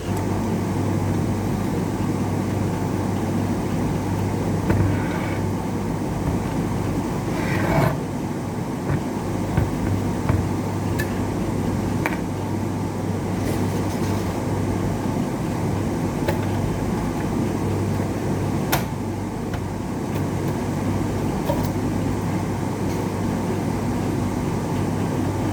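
Electric fan running steadily, with a steady low electrical hum and scattered light clicks and taps from handling parts on the bench.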